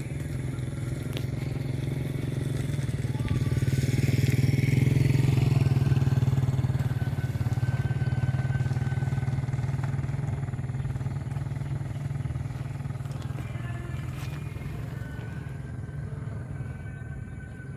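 Argo Sindoro express passenger train passing at speed: a steady low rumble that builds to its loudest about five seconds in, then slowly fades as the train runs on.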